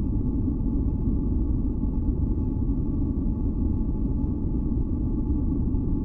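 A steady, deep noise, heavy in the bass and dull rather than hissy, with a few faint held tones above it. It does not change.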